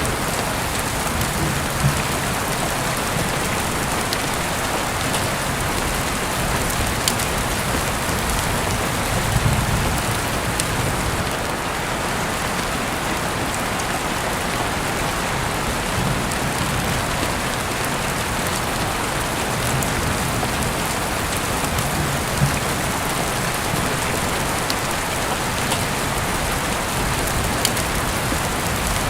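Heavy rain falling steadily, with scattered sharp drop impacts on nearby surfaces and a few brief low swells.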